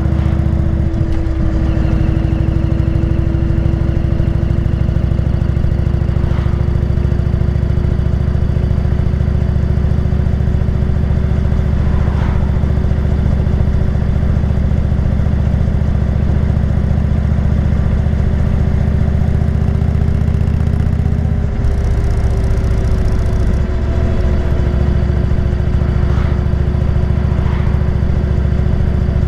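Indian motorcycle's V-twin engine running steadily while cruising, with brief changes in the engine sound about a second in and twice about three-quarters of the way through.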